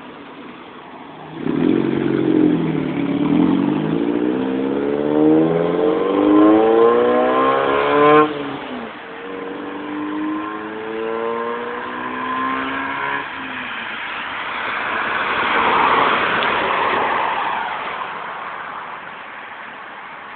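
1998 Honda Civic EX four-cylinder with a straight-piped exhaust accelerating hard: the exhaust note climbs steadily for about six seconds and cuts off suddenly, then climbs again, quieter, from a lower pitch. Near the end a broad rush of noise swells and fades.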